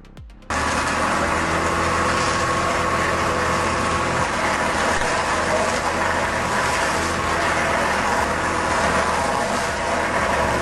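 A heavy machine's engine running steadily, a low hum under a dense, noisy rush. It cuts in abruptly about half a second in.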